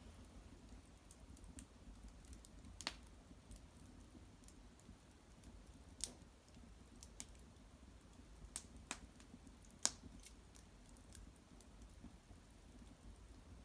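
Quiet cedar-wood fire in an irori hearth crackling, with scattered sharp pops, the loudest about 3, 6, 9 and 10 seconds in.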